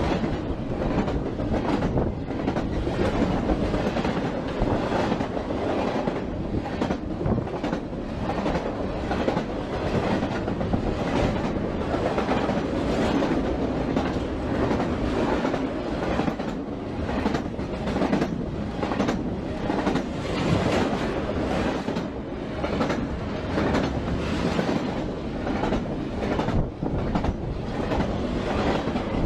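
Long freight train rolling past: a continuous rumble of wagons with a steady stream of wheel clacks over the rail joints.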